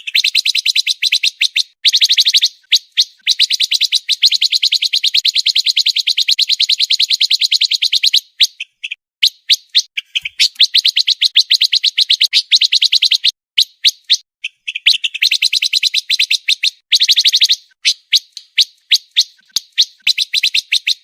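Pancawarna bird singing a fast, dense song: long runs of rapid, high-pitched repeated notes broken by short pauses. This is a masteran recording of the fast-paced song, used to tutor competition songbirds.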